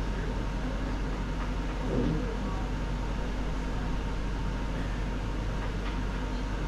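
Steady low hum of room or appliance noise, with a brief faint sound about two seconds in.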